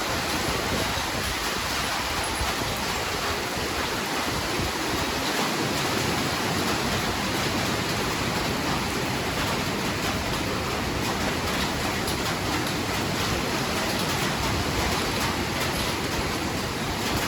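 Heavy rain falling steadily, an even hiss of noise without thunder.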